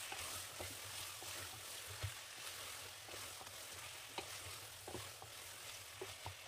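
Chicken pieces and sliced onions frying in oil in a pressure cooker pan, with a steady faint sizzle. A wooden spatula stirs them and knocks softly against the pot several times.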